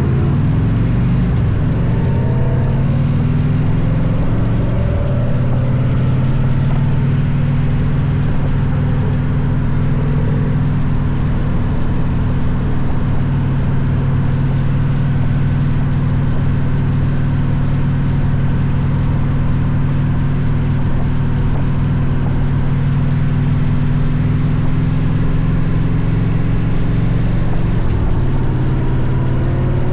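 A Victory V-twin motorcycle engine running steadily at cruising speed. Its pitch climbs in the first few seconds and again near the end as it accelerates.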